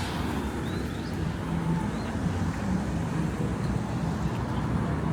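Steady low rumble of road vehicle noise, with wind on the microphone.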